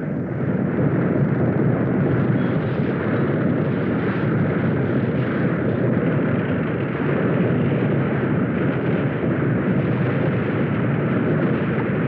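Continuous heavy rumbling roar of an earthquake, swelling about a second in and then holding steady, with no distinct impacts.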